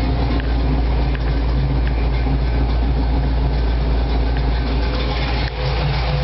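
Fuel-injected Chevy 350 V8 with a thumper cam, in a lifted Jeep Wrangler, running steadily at idle with a deep, even rumble.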